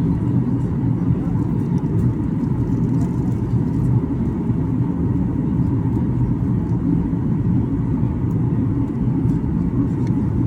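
Steady low rumble of a Boeing 737-800 in flight, its CFM56 jet engines and airflow heard from inside the passenger cabin, with a faint steady whine above it.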